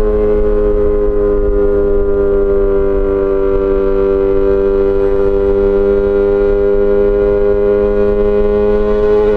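Yamaha XJ6 S inline-four engine through an SC-Project exhaust, held at a steady high rpm under way, its pitch sagging slightly through the middle and climbing back near the end, over a low wind rumble.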